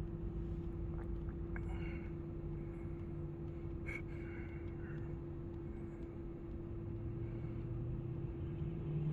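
Car engine idling with a steady low rumble and a constant hum, with a few faint clicks over it.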